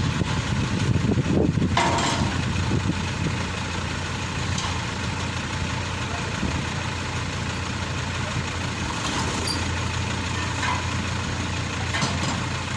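Maxxi Bimo Xtreme combine harvester's engine running steadily, with a short knock about two seconds in.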